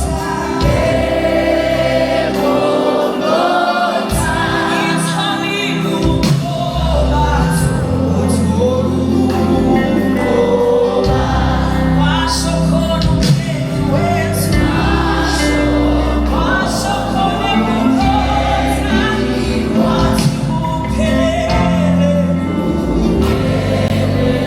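Live gospel worship music: a choir and singers over sustained keyboard chords and bass, with no spoken words.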